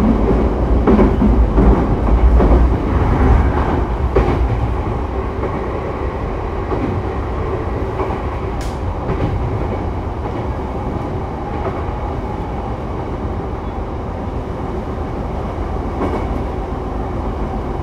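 Sotetsu 12000 series electric train running between stations, heard from inside a passenger car: a steady rumble of wheels on rail. A few sharp clicks from the wheels over the track come in the first four seconds, after which the run settles a little quieter and more even.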